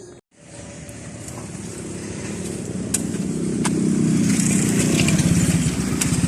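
Motorcycle engine running, getting louder over the first few seconds and then holding steady, with a few sharp ticks over it.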